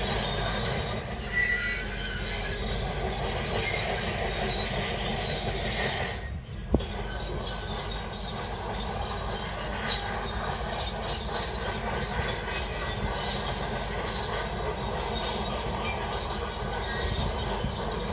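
Shantui D17 crawler bulldozer working, its diesel running steadily under the squealing and clanking of its steel tracks. About six and a half seconds in, the sound dips briefly and there is one sharp click.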